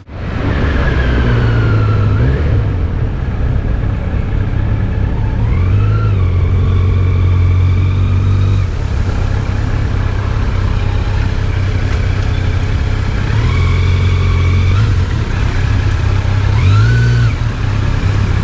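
Road vehicle engine under way, its note rising in pitch four times as it accelerates and dropping back between, over steady road and wind noise.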